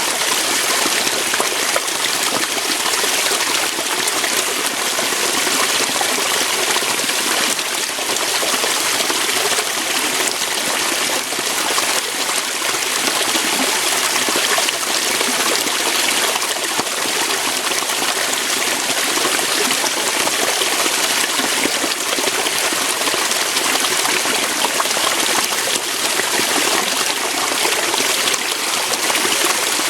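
Water flowing and splashing over rocks, a steady, unbroken rush with little deep rumble.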